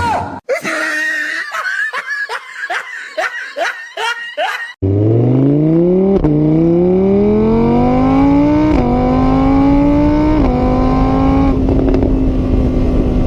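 A quick run of short, rising squeaky sounds, about two a second. About five seconds in, it cuts suddenly to a car engine accelerating hard, its pitch climbing and dropping back at each of four gear changes.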